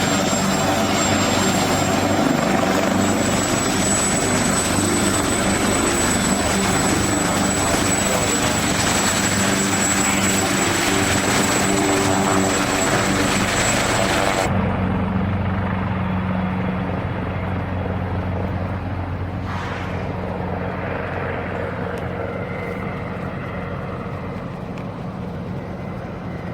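Ornge air ambulance helicopter, its turbines and rotor running loud and steady with a high whine. About halfway through, the high hiss and whine cut off abruptly, leaving a lower hum that slowly grows fainter.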